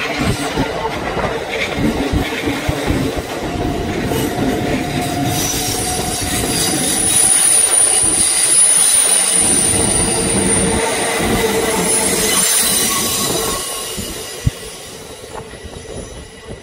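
Kintetsu 23000-series Ise-Shima Liner limited express passing close by, its wheels clacking over the rail joints. A high thin whine rises over the rumble as the cars go past, then the sound fades as the train moves away near the end.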